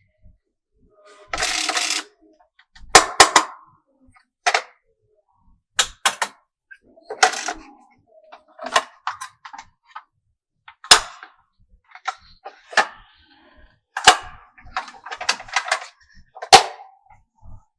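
Marbles running through a HABA wooden marble run: irregular sharp clacks as they drop onto and strike the wooden pieces, with a short rolling rattle about a second and a half in.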